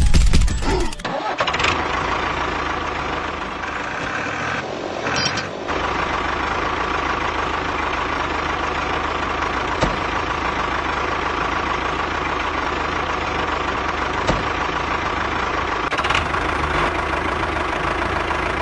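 Tractor engine running steadily, with a brief change in its sound about five seconds in.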